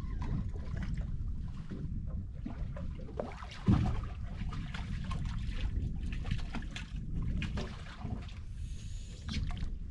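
Wind rumbling on the microphone, with water slapping and dribbling against a small boat and one sharp thump nearly four seconds in.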